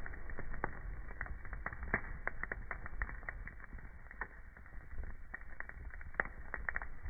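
Wood fire burning in a fireplace, crackling with frequent sharp pops over a low steady rumble.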